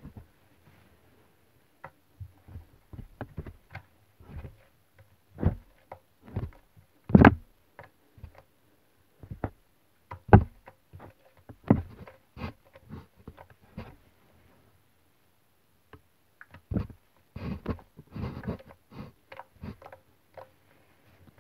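Irregular clicks and knocks, with a few louder thuds and a quiet stretch around 15 s in.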